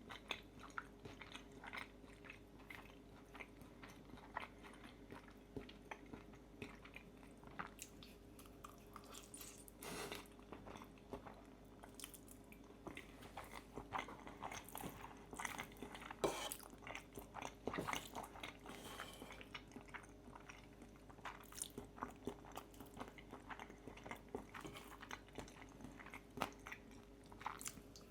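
A person chewing and biting food close to the microphone, with irregular wet clicks and crunches: mukbang-style eating of creamy pesto fettuccine with crispy bacon. Underneath is a faint steady hum.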